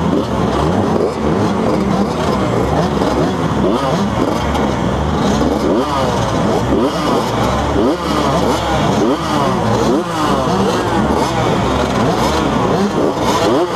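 Several motocross bikes racing, their engines revving up and down, with many overlapping rising and falling pitches.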